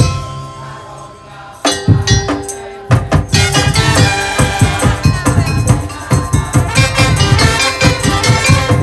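Madurese musik tong-tong percussion ensemble playing. The beating drops away to a few held tones, a few strikes come back about two seconds in, and the full rapid percussion resumes from about three seconds in.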